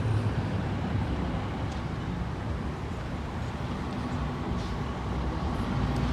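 Orion V diesel transit bus engine running steadily under way, with a low hum and road noise.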